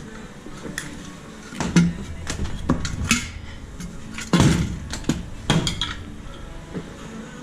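Metal clanking and clinking: tools and metal parts knocked together in a small workshop. There are several sharp knocks over a few seconds, the loudest about four and a half seconds in.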